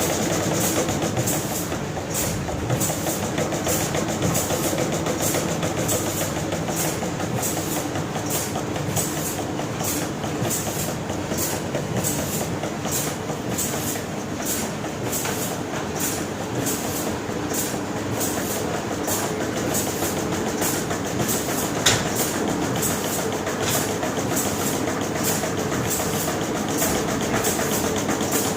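A washing machine for silky rope chains running steadily, with a regular clicking about twice a second and one sharper click about three-quarters of the way through.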